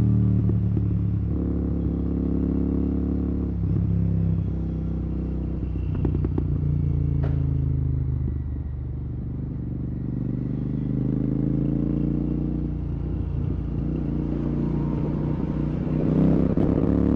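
Royal Enfield Continental GT 650's parallel-twin engine running through Red Rooster exhausts with no dB killer. Its note rises and falls with the throttle and gear changes, easing off about halfway through and pulling up again near the end.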